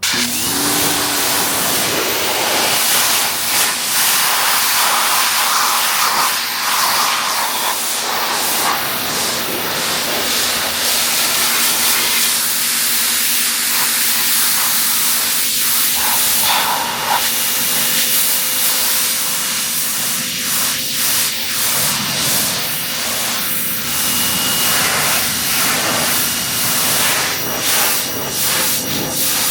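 Pressure washer spraying: the high-pressure water jet hissing steadily as it blasts the car's bodywork, with a low steady hum from the machine underneath.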